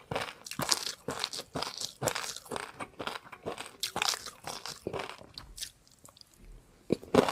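Close-miked eating: rapid, irregular crunching and chewing of food in the mouth. It eases off for about a second and a half near the end, then loud crunching resumes.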